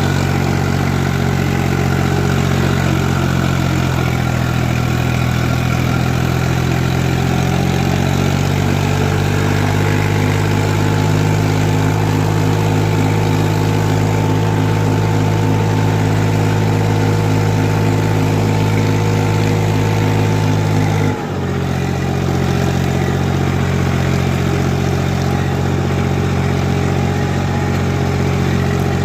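Tractor diesel engine running steadily. It speeds up a few seconds in, holds there, and drops back abruptly about 21 seconds in.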